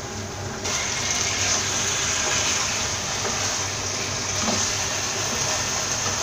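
Chicken masala sizzling in an uncovered nonstick pan while it is stirred with a wooden spatula, as the last of its liquid cooks off and the dish dries out. A steady, even hiss that starts suddenly under a second in.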